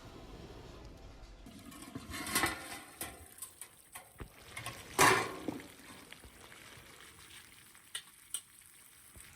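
Cooking pots and utensils clattering: a run of knocks and scrapes, the loudest about five seconds in, and two sharp clicks near the end.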